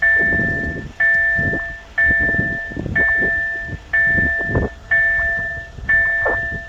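Level crossing warning bell ringing, about one stroke a second, each stroke a bright chime that fades before the next.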